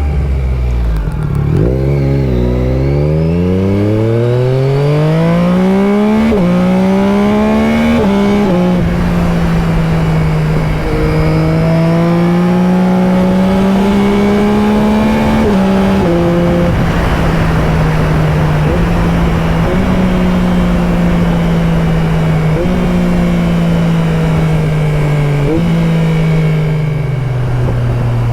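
Yamaha Tracer 9 GT+ three-cylinder engine through a baffle-less Akrapovic full race exhaust, accelerating hard: the revs climb steeply a couple of seconds in, broken by two quick upshifts. It then holds a steady cruise with small throttle and gear changes, and eases off near the end.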